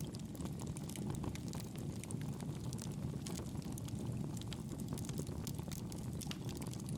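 Campfire burning: a steady low rush of flames with frequent small sharp crackles and pops from the burning wood.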